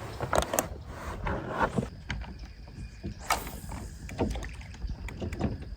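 Irregular knocks and clunks against a small boat, about a dozen scattered through the few seconds, over a low rumble.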